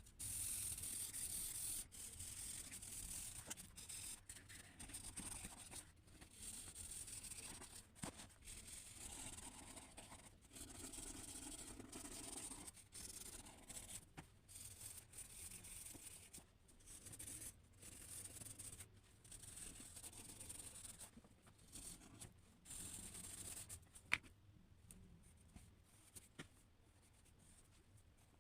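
Drawing tool scratching and rubbing across paper in faint strokes of uneven length with short pauses, and one sharp tap about three quarters of the way through.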